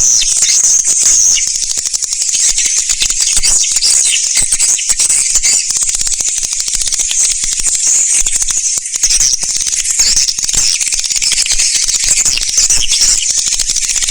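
Swiftlet lure-call recording: a dense, unbroken, high-pitched chatter of swiftlet twitters and rapid clicking chirps, the kind of sound played from swiftlet houses to draw edible-nest swiftlets.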